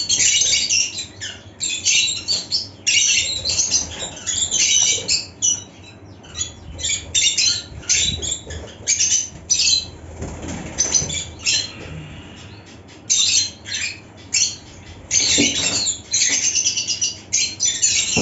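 Colony of lutino lovebirds chattering in rapid bursts of shrill, high-pitched squawks, with a brief lull about two-thirds of the way through.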